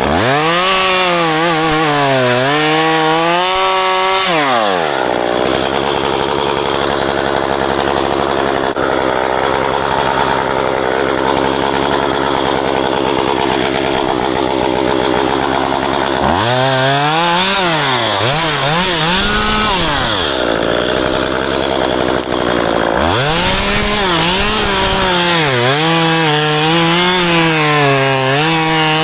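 Gas chainsaw revving hard in three bursts of cutting, its pitch sagging and recovering under the load of the wood, with a steadier, lower running speed between about 5 and 16 seconds in.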